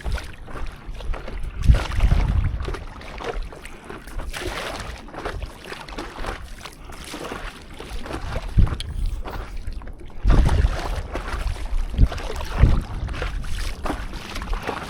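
Stand-up paddleboard paddling on the sea: water splashing and sloshing around the board and paddle, with wind gusting against the microphone several times.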